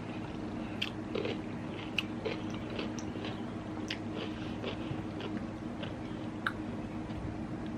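Close-miked eating of seafood-boil food: chewing and biting, with many small wet clicks and crackles.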